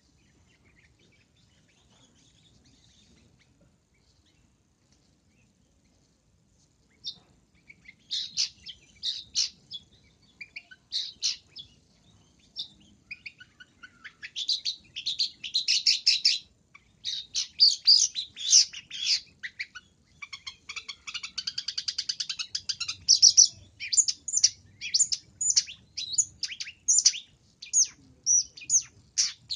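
Long-tailed shrike (pentet) singing. After about seven seconds of near silence come quick runs of sharp, high chirps, with a fast rattling trill midway.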